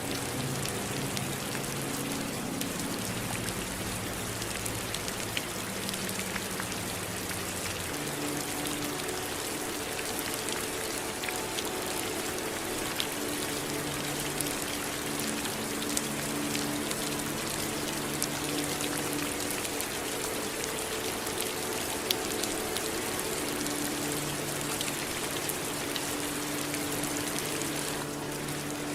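Steady rain falling, an even hiss with scattered sharp drop taps. Soft held low tones sit underneath and shift about 8 seconds in.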